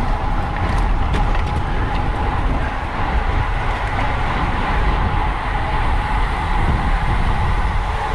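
Wind buffeting the microphone of a camera on a racing bicycle at speed, a loud steady rumble with a thin steady whine under it and a few light clicks in the first two seconds.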